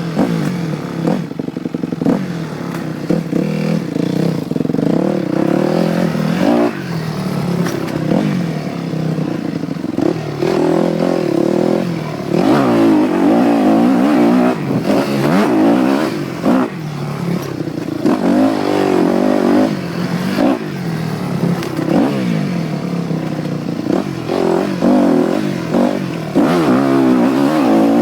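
Dirt bike engine revving up and dropping back again and again as the rider works the throttle, with its pitch climbing and falling every few seconds.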